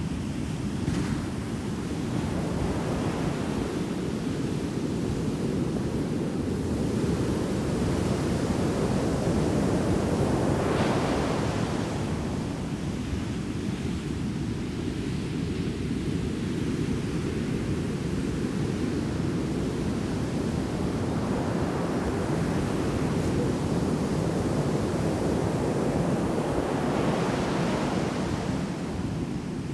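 Heavy shore-break surf on a sandy beach: a constant low rumble of breaking waves, with a wave crashing and washing up about eleven seconds in and again near the end.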